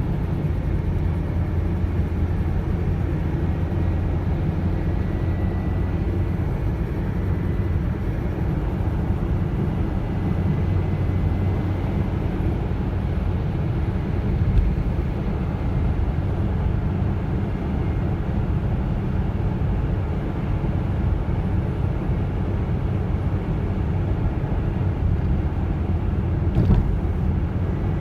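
Steady low rumble of a car on the move, engine and road noise with no change in pace, and a couple of light knocks partway through.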